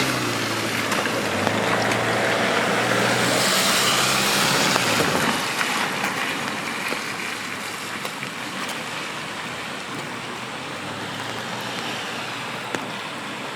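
A car passes on the wet road: a low engine hum and a swelling tyre hiss peak about four seconds in, then fade away by about six seconds. A steady rain hiss carries on underneath.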